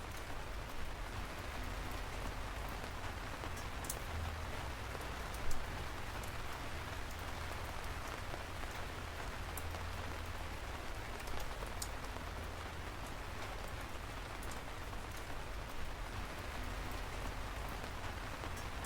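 Steady rain falling, with single drops ticking sharply here and there and one louder drop hit about five seconds in.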